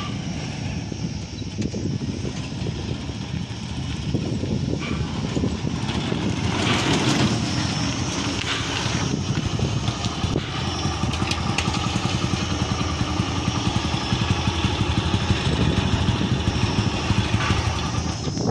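Motorcycle engine running steadily on a motorcycle converted to a chain-driven three-wheeled cargo tricycle, getting a little louder from about four seconds in.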